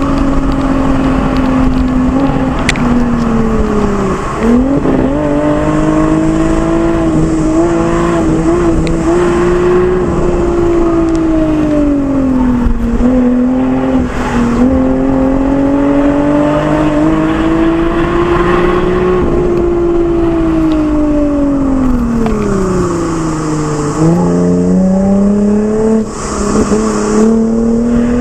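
Lexus IS engine and Fi aftermarket exhaust under hard driving. The note climbs steadily as the car accelerates, then falls away, several times over, with sharp drops and quick recoveries about four seconds in and again near the end.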